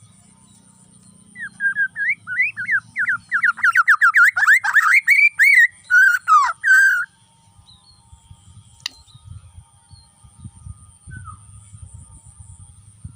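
Bornean white-rumped shama (murai batu) singing a loud burst of quick whistled notes that sweep up and down, running together into a fast rattling series in the middle and stopping about seven seconds in. A single sharp click follows a little later.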